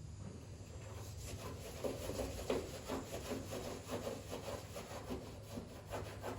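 Sheet-steel floor-pan patch being cut into a small plug: a run of irregular scraping, crunching strokes, about two a second, starting a second or so in.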